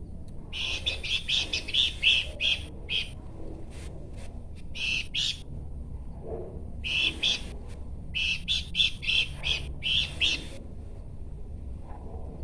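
Pelanduk semak, a babbler, singing in phrases of rapid, clear, high notes, with a few pauses between phrases.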